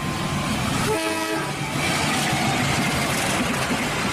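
KAI diesel locomotive hauling a passenger train past, its engine rumbling over steady rail noise. A short horn blast sounds about a second in.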